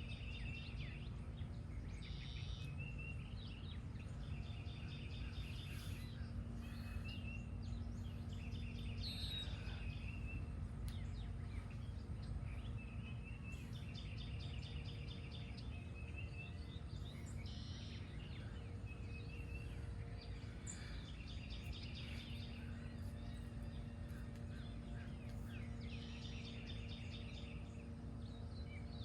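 Wild songbirds singing, with one bird repeating a short rapid trill every few seconds among scattered chirps, over a steady low background rumble and hum.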